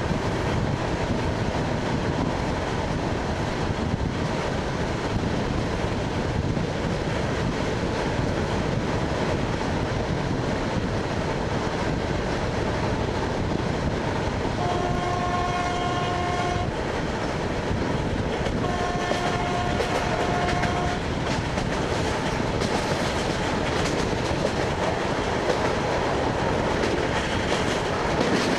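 ED9MK electric multiple unit running on the rails with a steady rumble of wheel and carriage noise. About halfway through, a train horn sounds twice, each blast a steady two-note chord about two seconds long.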